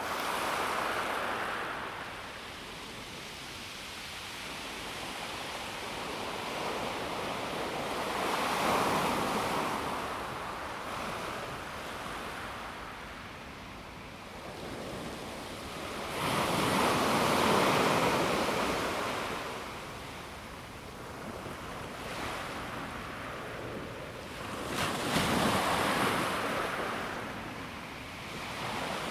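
Calm sea waves washing onto a pebble beach, each wave swelling and falling back, about four surges spread through the stretch.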